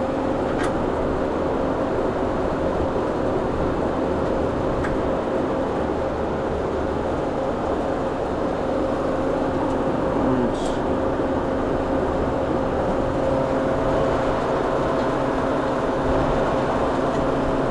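Steady hum of running commercial kitchen machinery, with a few faint clicks.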